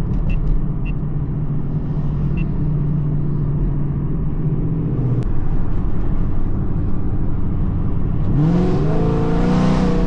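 Car engine running steadily, its pitch dropping about five seconds in, then revving up sharply near the end and holding the higher revs.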